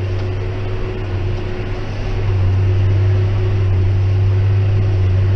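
John Deere 6190R tractor's six-cylinder diesel running steadily under load, driving a Claas 3300 big square baler in straw, heard from inside the cab. A deep, steady drone with a constant hum above it, the level swelling slightly about two seconds in.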